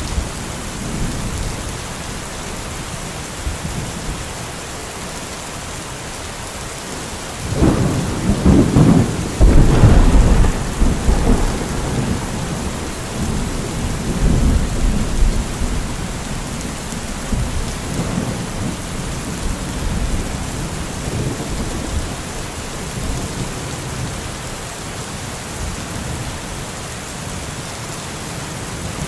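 Steady rain falling, with a long roll of thunder that builds about seven seconds in, is loudest a couple of seconds later and fades out; a fainter rumble follows a few seconds after.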